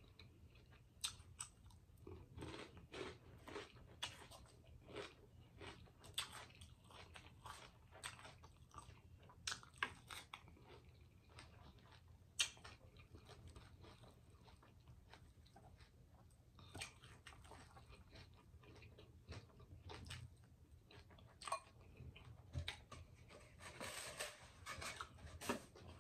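A person chewing and eating close to the microphone, with wet mouth sounds and scattered sharp clicks and smacks, busiest near the end.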